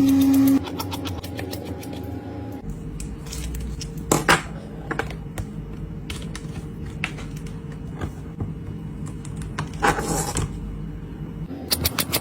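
Scattered light clicks and scrapes of small tools and phone parts being handled, over a steady low hum. A louder run of quick clicks comes near the end.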